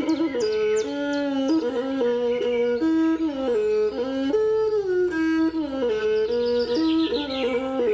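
Traditional Khmer wind instrument playing a slow melody that steps and slides between notes, with quick high descending chirps over it near the start and again toward the end.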